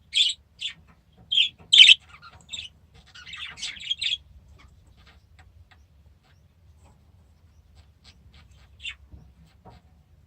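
Small cage birds chirping: several sharp, short calls in the first two seconds and a run of chatter around three to four seconds in. After that it goes quieter, with one more call near the end.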